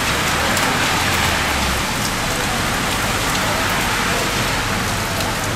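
Heavy rain pouring steadily onto a wet street and pavement. Vehicles drive past on the wet road, with a low engine rumble in the first couple of seconds.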